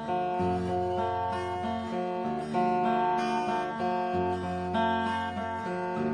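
Acoustic guitar being strummed, ringing chords that change every second or two.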